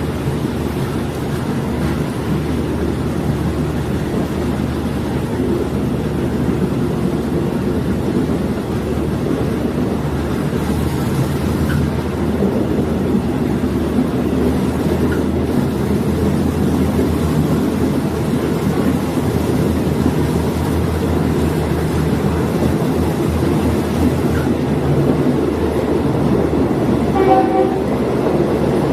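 A diesel multiple unit railcar running along the line, with steady engine and rail rumble throughout. A brief pitched sound rises above it near the end.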